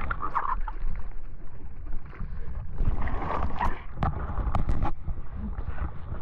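Wind buffeting the microphone and water rushing past on a moving jet ski, with a few sharp knocks or slaps between about three and a half and five seconds in.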